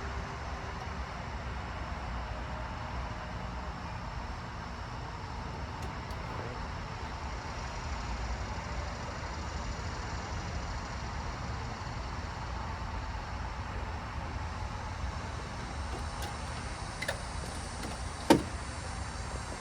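Steady low background rumble of vehicle traffic, with one sharp knock near the end.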